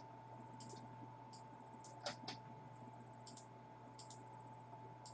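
Faint, scattered clicks of a computer mouse and keyboard, irregularly spaced, over a low steady electrical hum.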